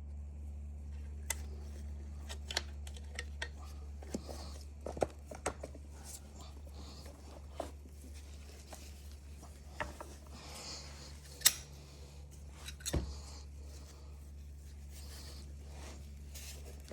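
Scattered light clicks and small knocks of tools and chainsaw parts being handled at a workbench, over a steady low hum. The sharpest click comes about halfway through, with a duller knock just after it.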